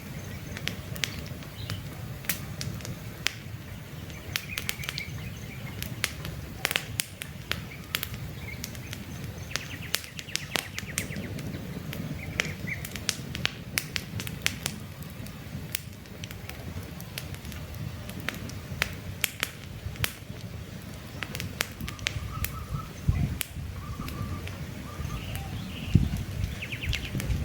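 Campfire crackling with frequent sharp pops over a steady low rumble of burning wood, with birds chirping now and then.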